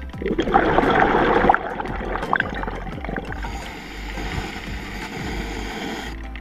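Underwater bubbling and gurgling, loudest in the first second and a half, then settling to a steadier, quieter wash.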